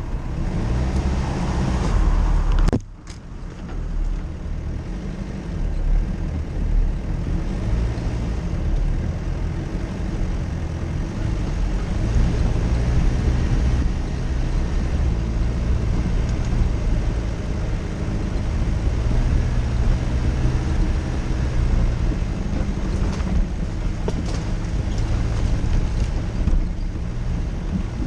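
Jeep Cherokee driving off-road, its engine running steadily. There is a sudden short drop in sound about three seconds in.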